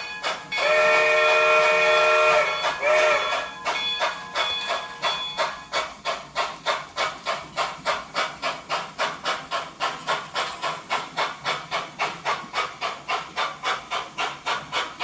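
Sound-equipped model consolidation steam locomotive's speaker: a chime steam whistle blows one long blast and then a short toot as it departs, followed by steady, evenly spaced exhaust chuffs at about three to four a second with steam hiss.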